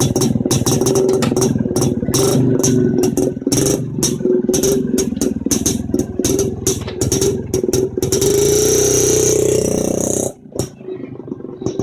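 1961 Jawa 250 Type 353's single-cylinder two-stroke engine running with an uneven, crackling beat; about eight seconds in its note rises and smooths out, then the sound drops away suddenly about ten seconds in.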